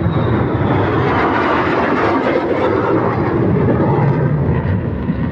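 F-35 Lightning II fighter jet's engine, a loud steady rush of jet noise.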